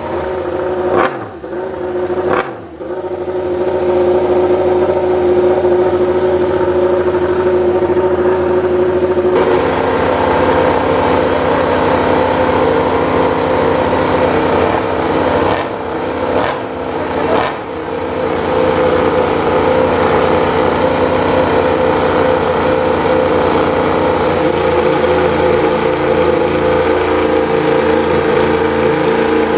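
Yamaha MotoGP racing motorcycle's inline-four engine running at a steady raised idle, with quick throttle blips about a second in, around two and a half seconds in, and again around 16 to 18 seconds; its pitch steps up and holds higher from about nine seconds in.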